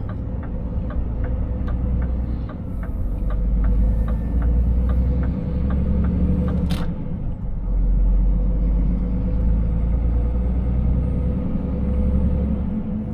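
Scania 500S truck's diesel engine running with a steady low rumble heard from the cab. A regular ticking, about two to three a second, lasts for the first five seconds or so, typical of the turn indicator. A single sharp click comes just under seven seconds in.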